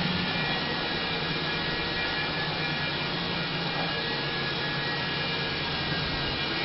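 A 2000 Ford Ranger's 4.0-litre V6 engine running steadily at idle, a constant hum with a whine in it.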